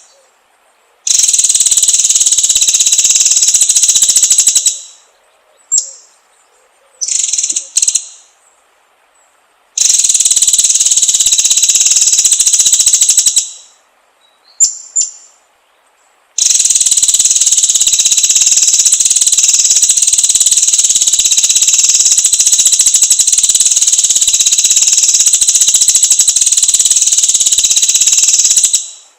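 Recorded songbird lure audio for a white-rumped shama: long, even, fast-pulsing buzzy trills lasting several seconds each, with short high chirped phrases in the gaps between them.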